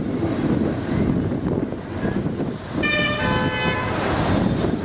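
Steady low rumble of vehicles running, with a short horn toot of under a second about three seconds in.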